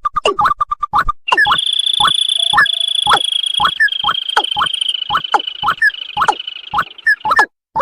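Bird-lure recording of rail calls of the kind used for white-breasted waterhen and watercock: a fast series of short rising notes, two to three a second. A steady high buzzing tone runs under them from about a second and a half in until near the end.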